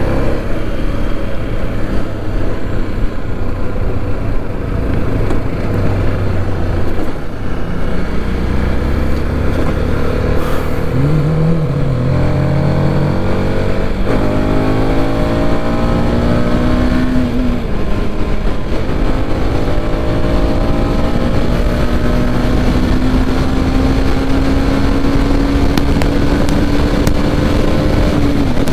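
Motorcycle engine accelerating hard through the gears, its pitch climbing and dropping back at each upshift, then holding one long slow climb in a high gear, with heavy wind rush over everything.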